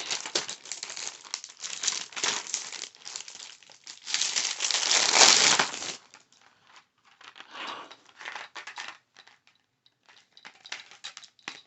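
Crinkly material being handled and crumpled close to the microphone: dense crackling for the first few seconds, loudest from about four to six seconds in, then thinning out into scattered crackles.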